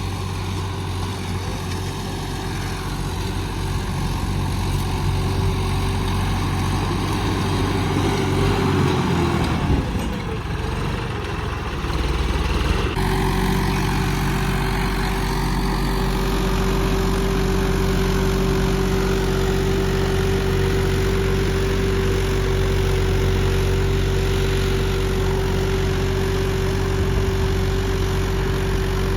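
Modified John Deere 5405 tractor's diesel engine running at high revs and getting louder. About ten seconds in, its pitch sags and falls as it lugs, then it jumps abruptly back to a steady high-rev run.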